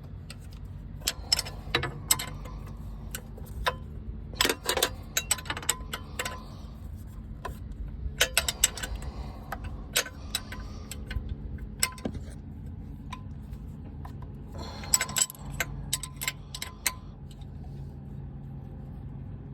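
Wrench and bolt clicking and clinking against metal in scattered clusters as the last starter bolts are fitted and tightened, over a steady low hum.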